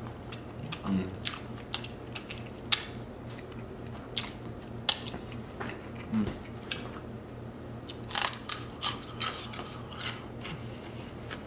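Close-miked chewing and lip-smacking of someone eating saucy chicken wings: scattered short wet clicks, with a quick run of them near the end.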